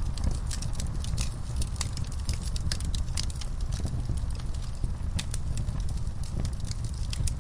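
Wood fire crackling in a fireplace: many sharp snaps and pops at irregular intervals over a steady low rumble of the flames.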